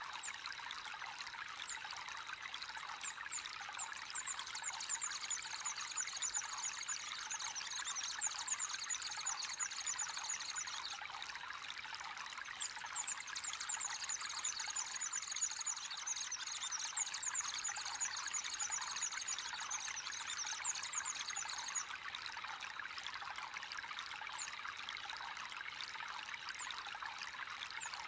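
Water trickling and pouring steadily into a fishpond, with small birds singing rapid runs of high chirps in two long bouts over it.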